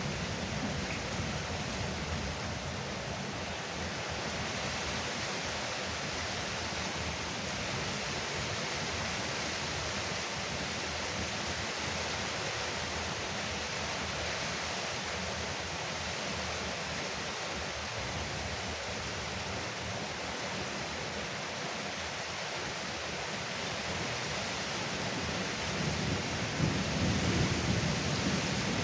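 Rain falling steadily on a porch roof, an even hiss. Near the end a low rumble of thunder builds under it.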